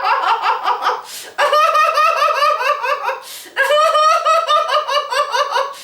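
A woman laughing heartily in long runs of rapid "ha-ha" pulses, the deliberate laughter of a laughter yoga exercise. She takes two sharp gasping breaths between the runs, about a second in and past the middle.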